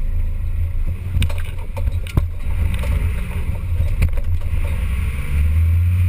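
Off-road 4x4 engine running with a deep, steady drone that swells near the end, with sharp knocks and clunks about a second, two seconds and four seconds in.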